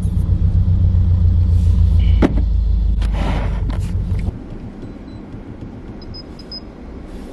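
2022 Subaru BRZ's flat-four engine idling with a loud, catless aftermarket exhaust, a steady low rumble heard inside the cabin. About four seconds in the rumble cuts off suddenly as the engine is switched off, leaving a quieter low background. A click and a short rustle come just before the cut.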